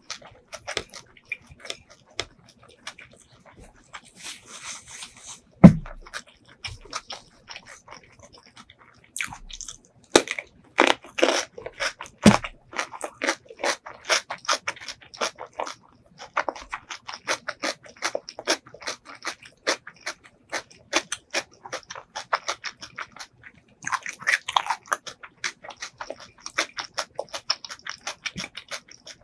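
Close-miked chewing of rice and spicy pork larb eaten by hand, a dense run of rapid wet clicks. A single loud thump comes about six seconds in.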